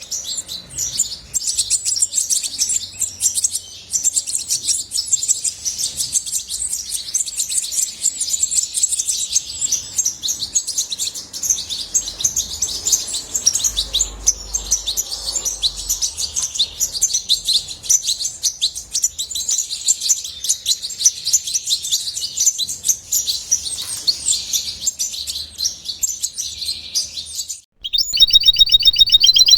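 European goldfinch singing: a long, fast, unbroken run of bright twittering and chirps. Near the end the song breaks off briefly and a louder, different run of rapidly repeated notes begins.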